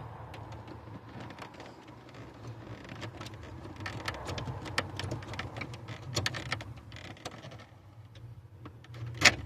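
Hand working behind the dash panel, feeling for the headlight switch's release button: a run of light plastic clicks and rattles, busiest in the middle, then one sharp loud click near the end. A steady low hum runs underneath.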